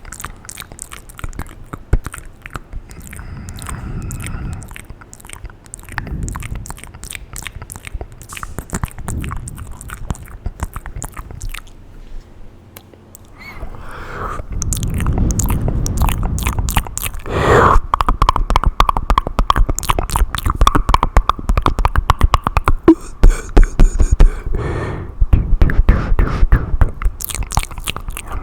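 ASMR mouth sounds picked up by a very sensitive close microphone: rapid wet clicks, smacks and tongue pops, quieter at first and louder from about halfway. A steady tone sits under the clicking for several seconds after the middle.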